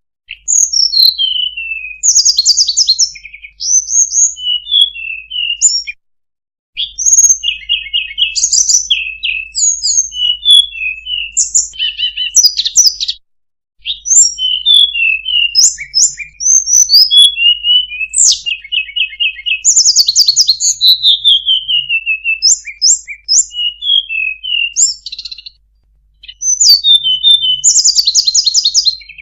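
Recorded song of a sulingan/tledekan bird played as a lure call: rapid high chirps, short buzzy trills and falling whistled slurs, repeating in quick phrases. It drops out completely for a moment three times.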